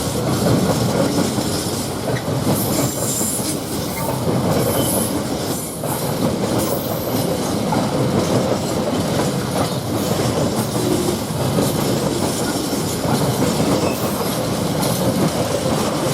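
Freight train of mostly empty wagons rolling steadily past, a continuous wheel-on-rail noise from the passing wagons with a few faint high squeals in the first half.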